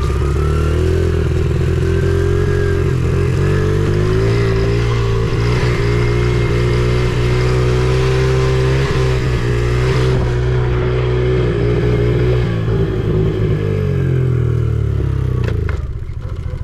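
Honda CRF70 pit bike's small four-stroke single-cylinder engine running under steady throttle while being ridden, its pitch wavering a little. Near the end the revs drop away as the throttle closes.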